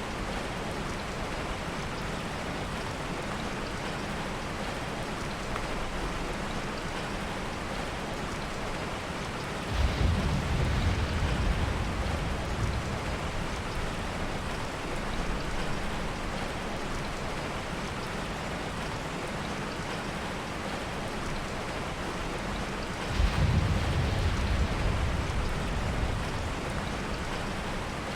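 Heavy rain falling steadily, with two low rolls of distant thunder, one about ten seconds in and one near the end, each swelling suddenly and dying away over a few seconds.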